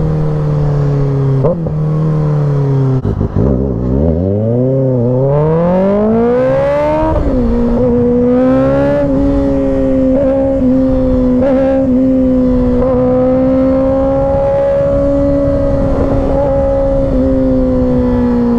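Kawasaki Ninja ZX-6R inline-four engine and exhaust running. The pitch drops to a low idle-like note about three seconds in, then the engine revs up hard for about three seconds of acceleration and settles into a steady cruise.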